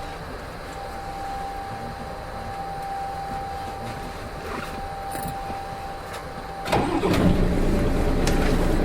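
Diesel engine of a Hino Rainbow RM city bus (KK-RM252GSN), heard from inside the bus, an engine whose sound has become abnormal. It runs quietly with a faint steady whine, then about seven seconds in it suddenly gets much louder and keeps running loud and steady under load.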